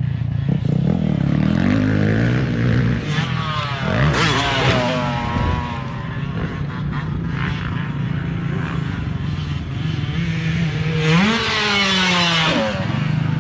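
Motocross dirt bike engine running hard on the track, revving up and down through the gears, with marked rises and falls in pitch about four seconds in and again about eleven seconds in.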